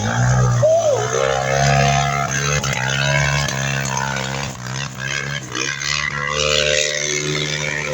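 Enduro motorcycle engine running steadily.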